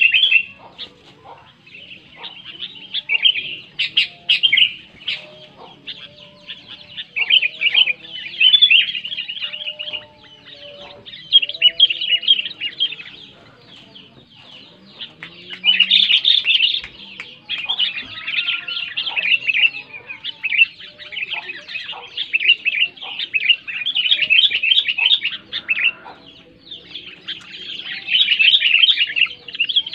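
Sooty-headed bulbul (kutilang) singing loudly: bursts of rapid, bright chirping phrases a few seconds long, separated by short pauses.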